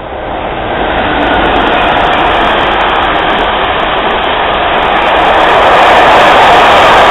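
A rail vehicle passing close, its rolling noise growing loud over the first second and rising again about five seconds in.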